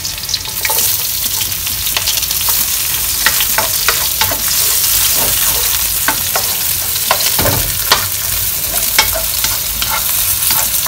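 Chopped onion and garlic sizzling in hot oil in a wok, the sizzle growing stronger about half a second in as the onion goes in. A spatula scrapes and taps against the pan again and again as it is stirred.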